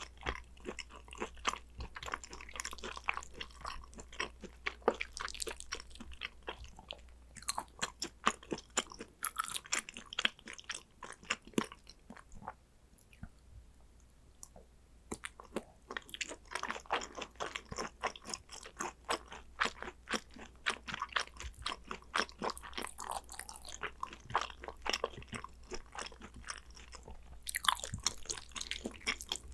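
Close-miked eating of raw Korean beef tartare (yukhoe): steady wet chewing with crisp, crackly crunches and lip smacks. It quiets for a few seconds about halfway through, then the chewing resumes.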